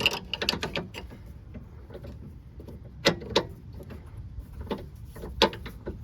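Metal clicks of a wrench tightening a sway bar link nut: a quick run of ratcheting clicks in the first second, then a few single sharp clicks spread through the rest.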